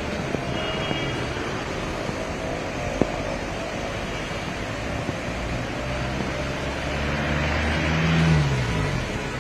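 Road vehicle engines running amid steady street noise; one vehicle passes close, loudest a little after eight seconds in, its engine note falling as it goes by.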